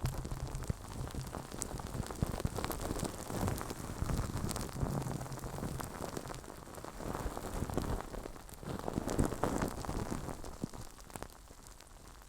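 Close-miked ASMR rubbing on the microphone, a dense crackling friction with scattered small clicks that swells and eases in slow strokes and fades near the end.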